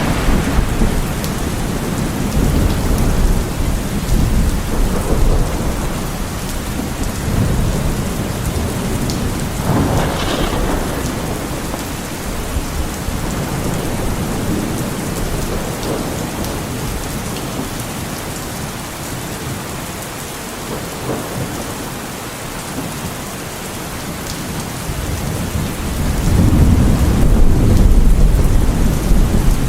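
Heavy rain falling steadily, with thunder rumbling low under it; the longest, loudest roll of thunder comes near the end.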